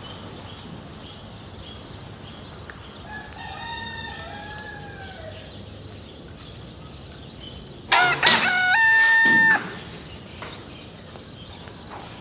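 A rooster crowing: a faint crow about three seconds in, then a loud crow about eight seconds in that rises and holds a steady pitch for over a second. Crickets chirp faintly and regularly underneath.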